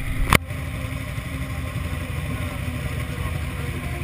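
Buell XB12R's air-cooled V-twin idling with an uneven low rumble. A single sharp knock comes about a third of a second in.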